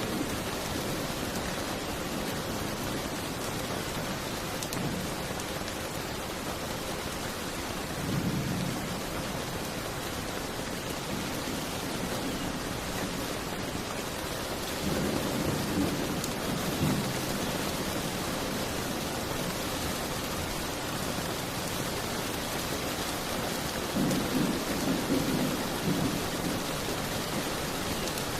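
Steady rain, with low rolls of thunder three times: about eight seconds in, around the middle, and near the end.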